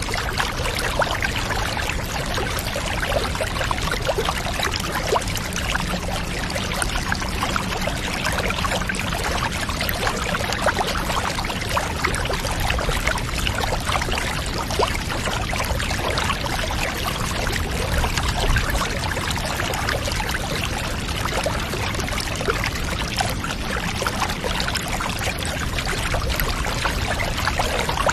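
Water pouring steadily into a bathtub, an even stream of fine splashing over a low rumble.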